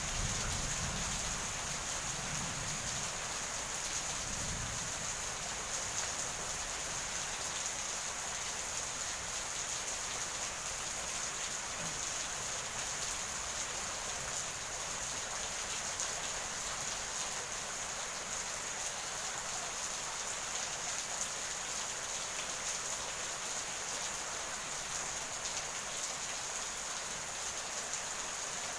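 Steady heavy rain pouring. A low thunder rumble fades away in the first few seconds.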